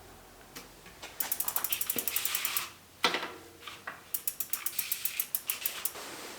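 A ratchet mechanism clicking rapidly in two runs of about ten clicks a second, with a single sharp knock between them about three seconds in.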